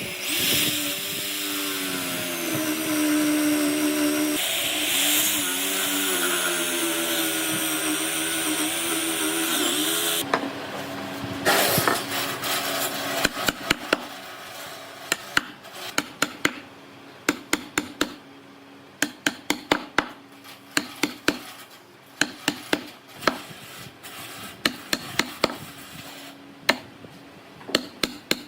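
A handheld power tool running for about ten seconds, its pitch wavering as it works the wood, then stopping. After it comes a long run of sharp knocks on wood, often several in quick succession, typical of hammer or mallet blows.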